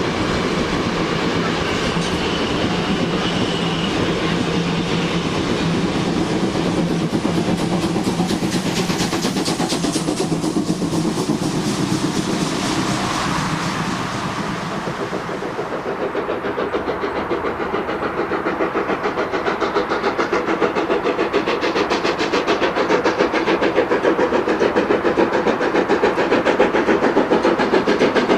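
A railway train running on the track, with a fast, even, rhythmic clatter that grows louder toward the end.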